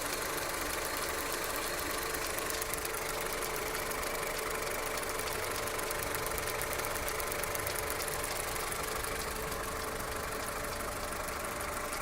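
Skoda Octavia Tour's warm 1.4-litre 16-valve petrol four-cylinder running steadily with a fast, regular knocking tick. It is an alarming new knock in an engine that otherwise runs evenly with no error codes showing.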